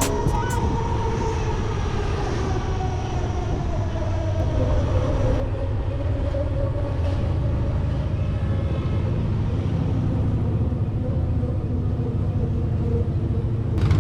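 Riding an electric motorcycle through traffic: a steady low road and wind rumble with a motor whine that falls slowly in pitch over the first half as the bike slows.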